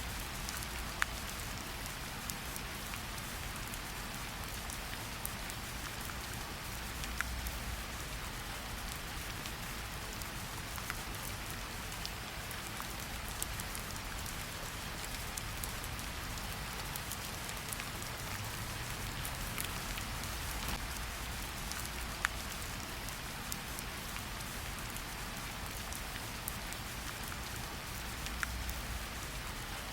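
Steady forest rain: a constant even hiss, with single louder drops heard now and then as sharp taps.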